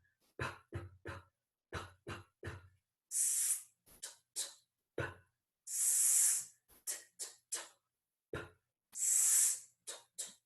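A woman's voice sounding out the word "stop" phoneme by phoneme. A hissed "sss" comes three times, about three seconds apart, and short clipped consonant pops and brief vowel sounds fall between them.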